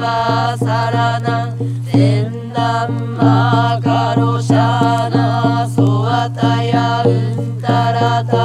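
Chanting voice over a steady low drone, with a regular beat about three times a second.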